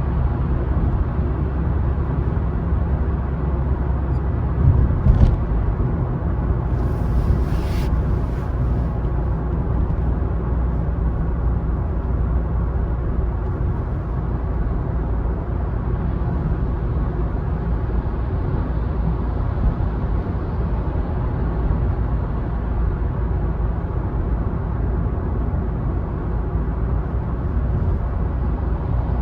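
Car driving along: steady low road and engine rumble, with a brief click about five seconds in and a short hiss a couple of seconds later.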